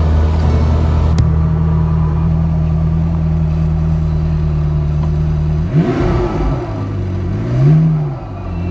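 McLaren MP4-12C's twin-turbo V8 idling steadily with the car at a standstill, then revved twice: a quick blip about six seconds in and a louder one near the end, each rising and falling in pitch.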